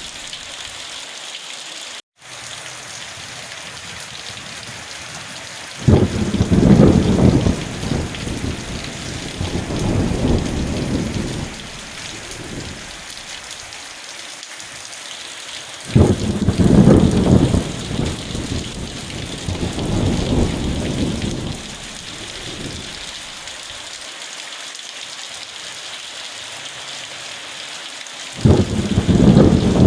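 Steady rain hiss with thunder rumbling three times. Each peal starts suddenly, about six, sixteen and twenty-eight seconds in, and rolls on for several seconds. The sound cuts out for a moment about two seconds in.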